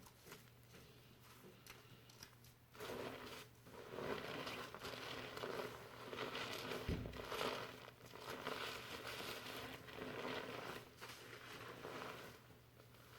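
Fingers working foamy shampoo lather through hair, making a soft crinkling, crackling rustle that starts about three seconds in and comes in waves. One brief low bump near the middle.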